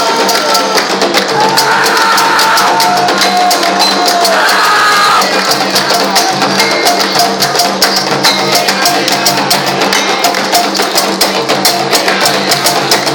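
Afro-Brazilian religious music for the orixá Xangô: fast, steady hand-drum and percussion rhythm, with voices singing a chant in roughly the first five seconds.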